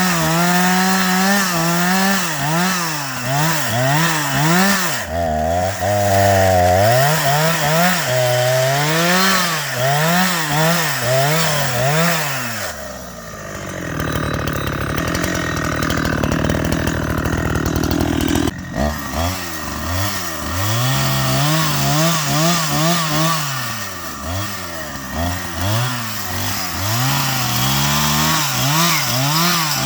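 Chainsaw engine revving up and down again and again as it cuts wood. About halfway through it sinks to a lower, steadier note for several seconds, then jumps back up abruptly and carries on rising and falling.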